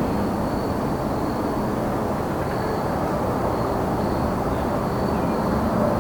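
Crickets chirping in an even, pulsing high-pitched line over a steady low rumble of distant vehicle traffic.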